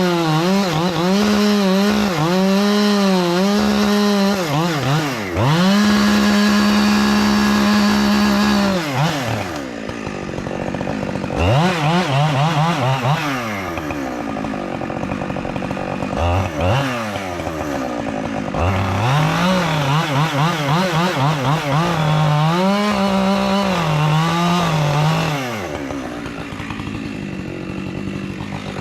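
Chainsaw cutting into a pine trunk. The engine runs near full throttle with its pitch dipping and recovering as the chain bites. Several times it eases off to a lower pitch and revs back up.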